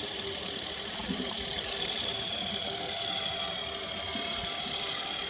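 Small brushed electric motors of a WLtoys V915-A scale RC helicopter running with a steady high-pitched whine; the pitch rises a little about two seconds in, then eases down as the throttle changes.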